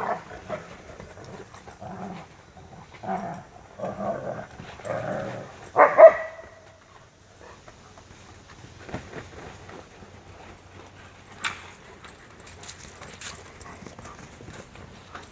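Dogs play-fighting, growling and yipping in a string of short bursts, with one loud bark-like yelp about six seconds in; after that only faint scuffling and clicks.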